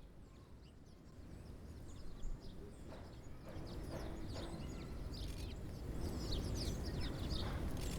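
Small songbirds chirping, many short high calls overlapping and getting busier from about the middle, over a low rumble that grows steadily louder.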